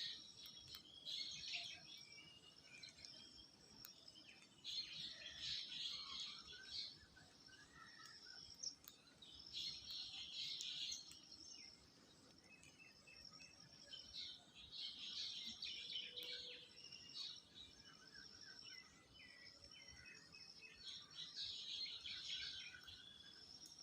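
Faint high bird chirping that comes in short bouts of a second or two, about every five seconds.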